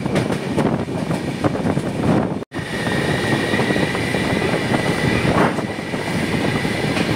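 Passenger train running at speed, heard from an open doorway: the steady rumble and rattle of wheels on rail mixed with rushing wind. The sound drops out for an instant about two and a half seconds in, and a steady high whine then runs along with the rumble.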